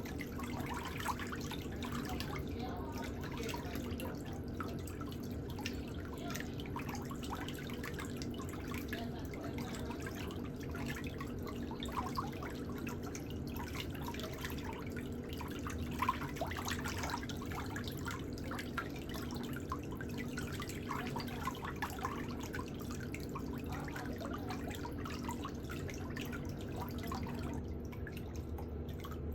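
Small irregular clicks and light scrapes of pedicure hand tools working on a toenail, over a steady low hum.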